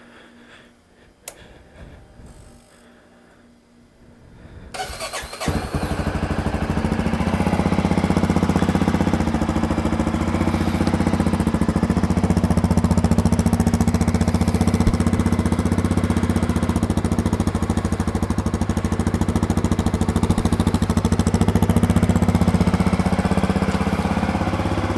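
A 2020 Honda CRF250F's 250 cc four-stroke single-cylinder engine is cold-started. After a few quiet seconds it catches about five seconds in and then idles steadily.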